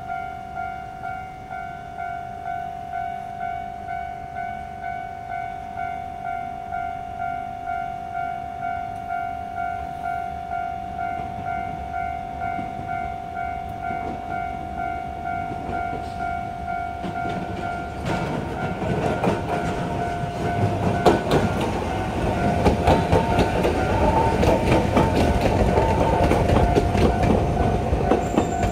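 A repeating two-tone warning chime, like a railway crossing signal, pulses about one and a half times a second throughout. From about eighteen seconds in, a narrow-gauge electric train approaches, growing louder, its wheels clacking rapidly over the rail joints as it runs close by.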